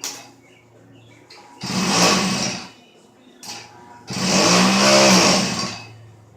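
Pocket bike's small two-stroke engine running at a low idle and revved hard twice, the second rev climbing and falling back. A short sharp click comes right at the start.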